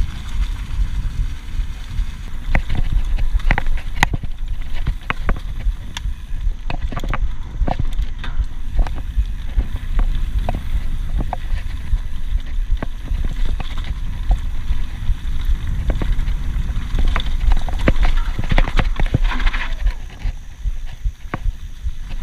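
Mountain bike riding over a rough dirt trail: a steady low rumble of tyres and wind on the microphone, with frequent sharp clacks and rattles as the bike goes over bumps.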